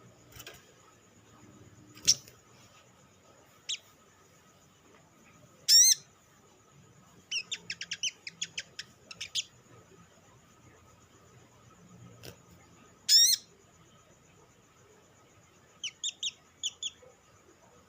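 Olive-backed sunbird calling: sharp, high chirps at irregular intervals, with a quick chattering run of short falling notes about 7 to 9 seconds in and two loud notes about 6 and 13 seconds in.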